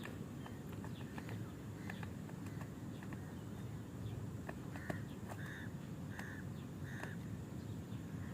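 A bird calls four short, evenly spaced notes, over a low outdoor rumble and scattered small ticks.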